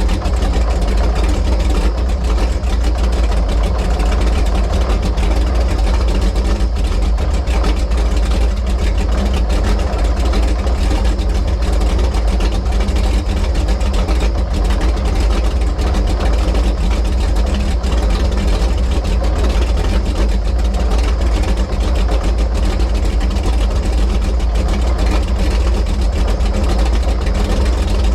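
A 1971 Sanger flat-bottom V-drive boat's inboard engine running steadily while cruising, with a deep, even rumble that doesn't rise or fall.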